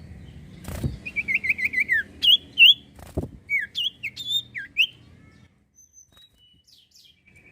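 Common iora (cipoh) calling: a quick run of about six short repeated notes, then several sharp upswept whistles, ending about five seconds in. Two dull knocks sound under the calls, about one second and about three seconds in.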